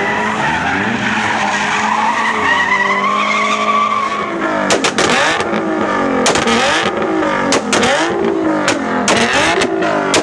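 A car engine revving hard with tires squealing, as in a burnout or drifting. The revs climb for the first few seconds, then rise and fall rapidly from about halfway, with several sharp cracks among them.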